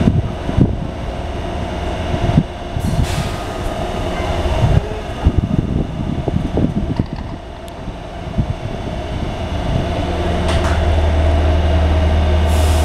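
Taipei Metro C321 train pulling out of the station: running noise with a steady tone and scattered low knocks, and a strong low hum that grows louder from about ten seconds in as the train picks up speed.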